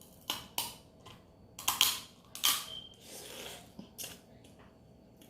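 Blue crab shells cracking and crunching: a series of sharp cracks, the loudest about two seconds in, with a short rustle just after the middle.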